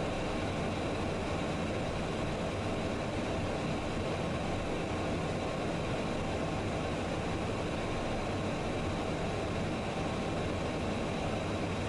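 Steady cockpit noise of a business jet on short final approach: engine and airflow noise running evenly with a faint hum underneath.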